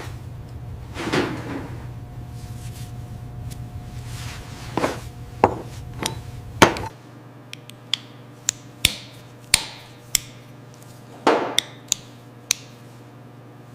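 A dozen or so sharp knocks and taps of hard objects at irregular spacing, as in hands-on work with tools and small parts. A steady low hum underneath drops away about seven seconds in.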